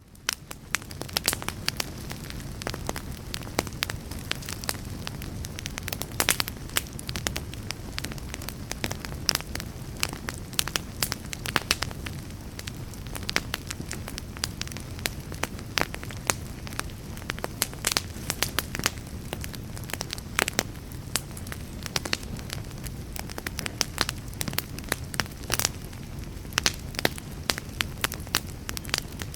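Wood fire burning in a fireplace: a steady low rumble of flames with frequent sharp crackles and pops from the burning wood, fading in at the start.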